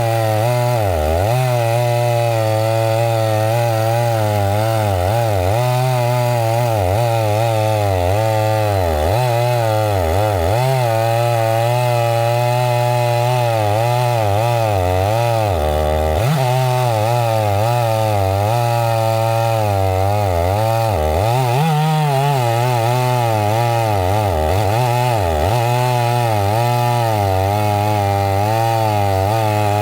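Two-stroke chainsaw running under load while cutting, its engine note repeatedly sagging and recovering as the chain bites into the wood, with a couple of brief rises in pitch as it revs up.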